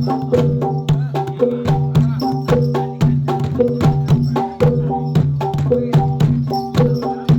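Traditional Javanese percussion ensemble music accompanying jathilan dance: tuned struck instruments play a fast, repeating melodic cycle over steady drum strokes, several strikes a second.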